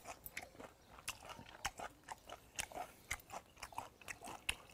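A person chewing a mouthful of spicy raw goby salad with crisp vegetables, heard close up: faint, irregular little crunches and mouth clicks.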